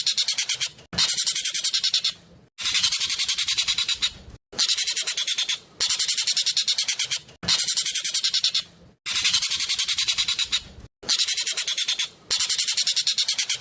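Jovin (ekek keling) songbird singing a loud, fast, tight string of sharp high notes, about ten a second, in phrases of about a second and a half split by brief pauses.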